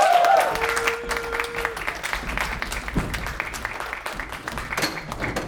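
Audience applauding and cheering, with whoops right at the start; the clapping slowly dies down.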